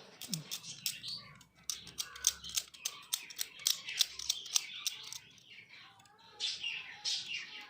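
A quick run of sharp scratching clicks, several a second, from a knife scraping the metal tab of a lithium-ion battery cell to clean it for soldering. Birds chirp in the background near the end.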